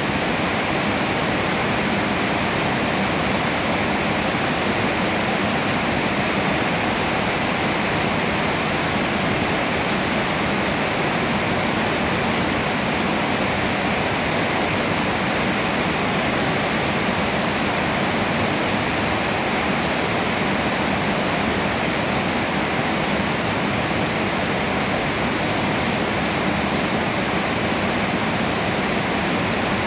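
Steady rain falling on leafy trees: an even, unbroken hiss with no letup.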